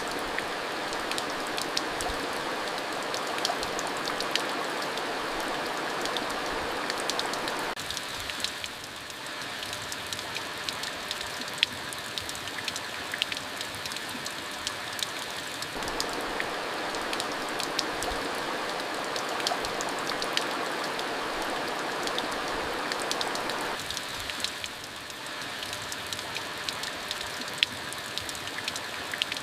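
Steady rain falling, a continuous hiss with many sharp individual drop hits. The texture shifts abruptly about every eight seconds, becoming thinner and then fuller again.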